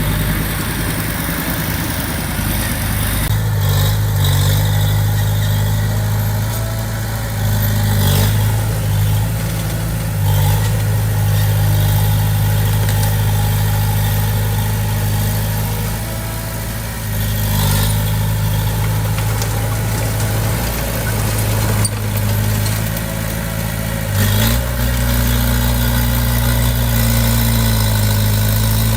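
Diesel engine of a small Komatsu D20P crawler bulldozer running under load. Its revs step up and down several times, with occasional metallic clanks.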